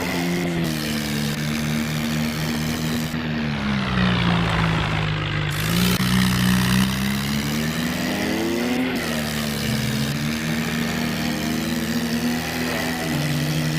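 Remote-control toy tractor running with a steady engine-like drone, its pitch dipping about four seconds in and rising again around eight to nine seconds.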